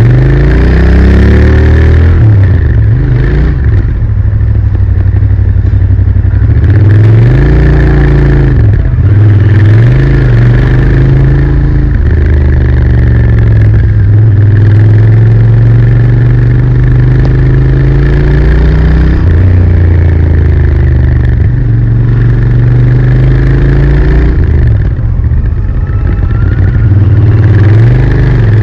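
Royal Enfield Interceptor 650's 648 cc parallel-twin engine running loud through its stock exhausts. It revs up and drops back again and again, and holds a steady note for several seconds in the middle.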